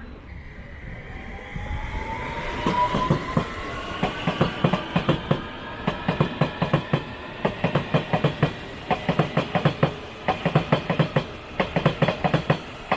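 London Underground S7 stock District line train moving off: its traction motors give a rising whine, and its wheels clatter rhythmically over rail joints, several knocks a second.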